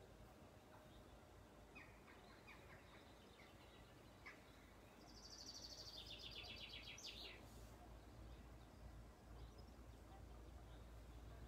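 Faint birdsong: a few short chirps, then a rapid trill lasting about two seconds near the middle, over a low steady rumble of outdoor background noise.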